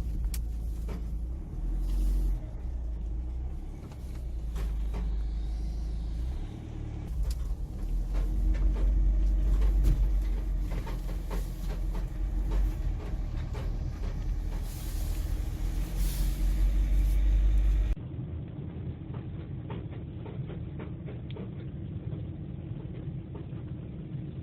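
A car driving: a steady low rumble of engine and road noise. About three-quarters of the way through it cuts to a quieter, duller stretch of the same kind of rumble.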